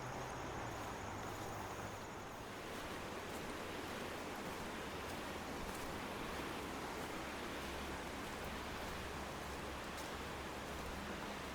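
Faint, steady rushing of river water running over rapids, with no distinct events.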